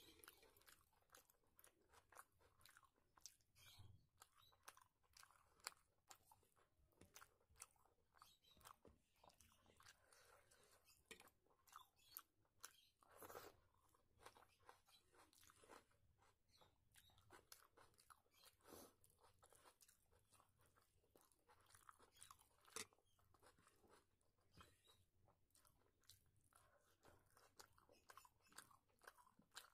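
Faint close-up chewing and mouth sounds of a person eating, with many small irregular clicks.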